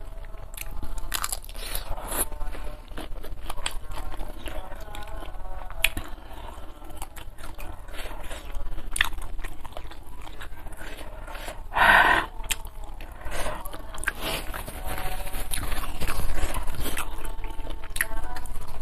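Close-miked biting and chewing of shrimp in chili sambal: wet mouth sounds with many small clicks and crunches. A brief louder sound comes about twelve seconds in.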